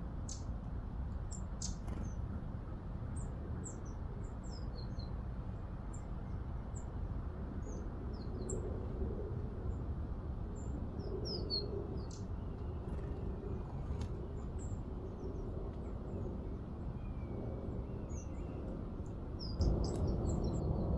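Small garden birds chirping and calling, with short, high chirps scattered throughout over a steady low rumble of background noise.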